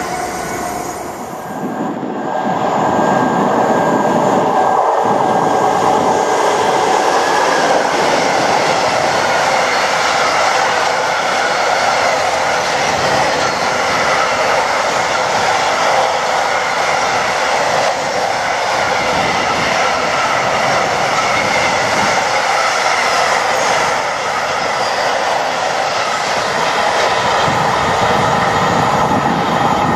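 A freight train of Cargowaggon vans hauled by a Class 92 electric locomotive passes close, its wheels rolling over the track in a steady, loud rumble. The sound swells about two seconds in and holds steady after that.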